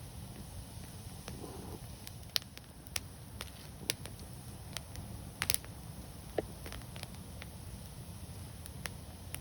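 Wood fire crackling: scattered sharp pops, about one a second, with a close pair of pops about five and a half seconds in, over a steady low rumble of the burning fire.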